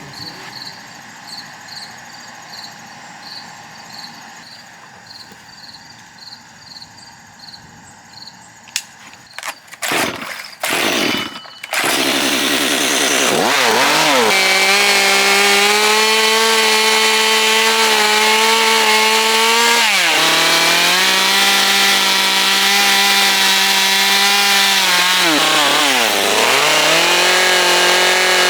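Faint, evenly repeating high chirps at first, then a few sharp strokes and a small chainsaw engine starting about twelve seconds in. It revs up to a steady high whine and drops in pitch twice, near twenty and twenty-six seconds, as it bogs down cutting into the wood of a carving.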